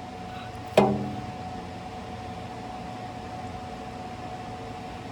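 A single sharp metallic clank that rings briefly, about a second in, from metal parts or tools knocking while the engine's timing cover is worked free of the oil pan gasket. A steady hum runs underneath.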